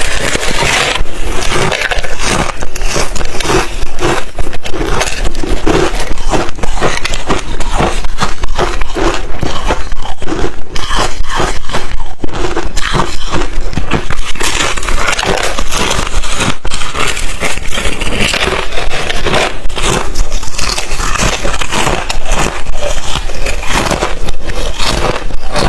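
Crushed, refrozen ice chips being bitten and chewed: a dense, unbroken run of loud, crisp crunches and crackles.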